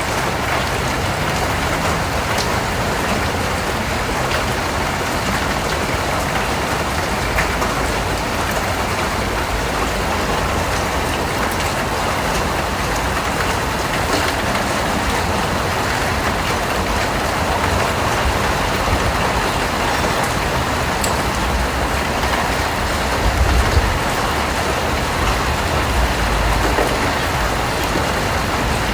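Steady, fairly heavy rain falling, an even patter with no let-up, with a couple of brief low rumbles about two-thirds of the way through.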